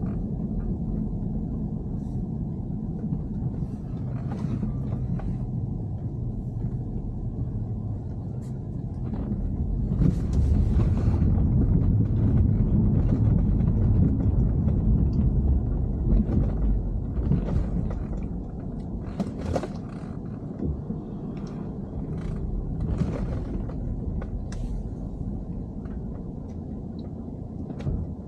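BMW E90 3 Series car that has an abnormal noise, heard while it runs: a steady low rumble, louder for several seconds near the middle, with scattered short knocks or clicks over it.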